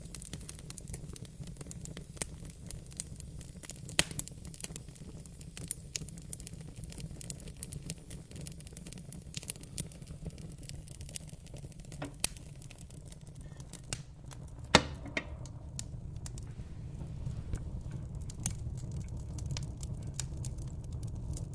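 Wood fire crackling in a fireplace: irregular sharp snaps and pops over a steady low rumble of the flames, with a few louder pops about 4, 12 and 15 seconds in.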